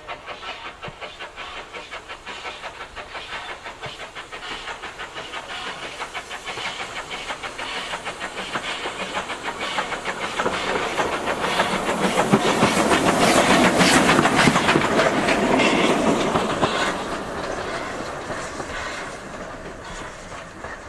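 Steam-hauled train heard on board behind an LB&SCR A1 class Terrier 0-6-0 tank engine: a fast, rhythmic clickety-clack of the wheels and running gear. It grows louder toward the middle, then eases off near the end.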